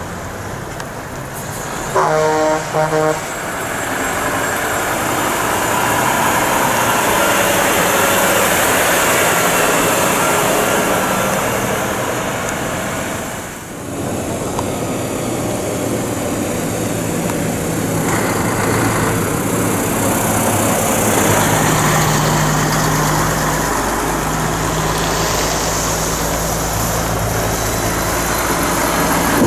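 Lorry diesel engines running and driving past, with a horn sounded in three short blasts about two seconds in.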